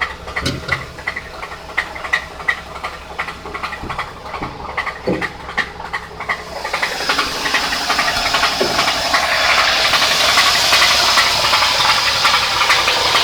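1987 Pontiac Bonneville's 3.8-litre V6 running with a rapid, regular knock, about four a second, from a blown connecting rod. About halfway through, a loud hiss rises and stays over the knocking.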